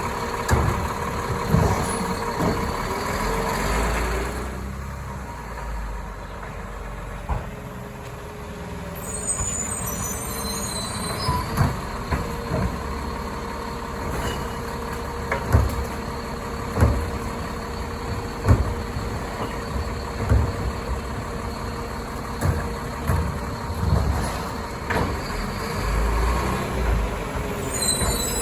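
Labrie Automizer garbage truck at work: its diesel engine runs under a steady hydraulic whine for the first few seconds, then the whine drops away. After that come short high squeals and a string of sharp clanks and knocks a few seconds apart, as the automated arm and packer handle recycling.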